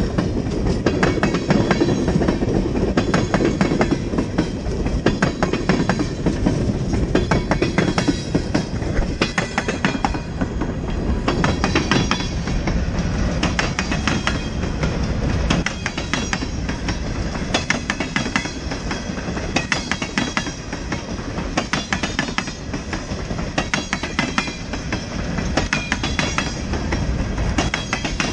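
Freight train rolling past with a steady low rumble, its car wheels clicking over the rail joints.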